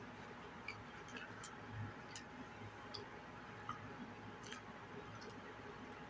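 Faint closed-mouth chewing with scattered small clicks, over a low steady hum.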